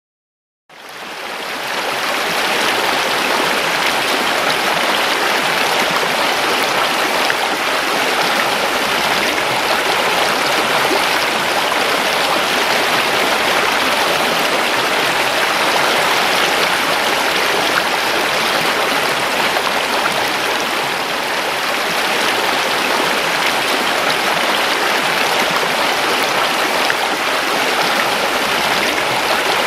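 River water rushing and babbling steadily. It fades in over the first second or two.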